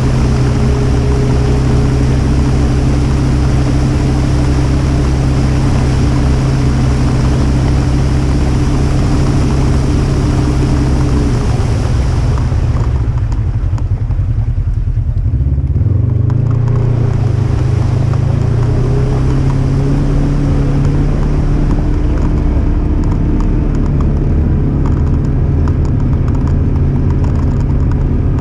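Polaris RZR 1000 Highlifter side-by-side's engine running steadily under way. Midway the sound turns muffled for a few seconds, then the engine briefly picks up revs, rising in pitch.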